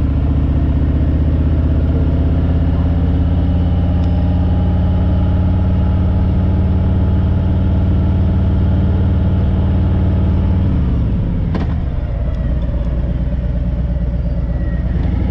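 2019 Harley-Davidson Street Glide's Milwaukee-Eight V-twin running steadily while riding; about ten and a half seconds in the engine note drops, followed by a single click, then it carries on at a lower pitch.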